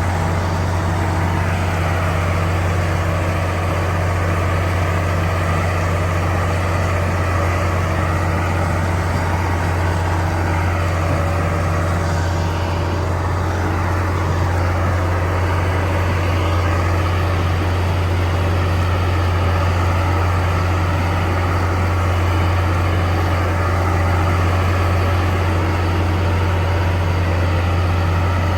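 Heavy diesel engine of construction machinery running steadily, with a strong constant low hum.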